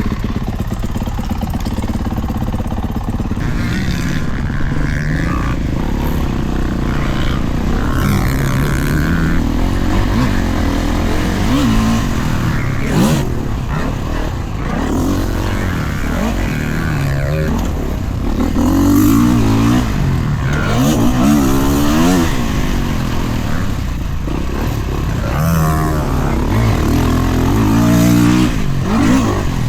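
Dirt bike engine being ridden hard, revving up and down over and over: the pitch climbs on each throttle-up, then drops back when the rider shifts or rolls off.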